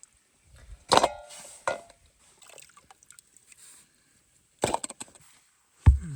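Several sharp knocks and clatters, the loudest about a second in and near the end, the last with a deep thump.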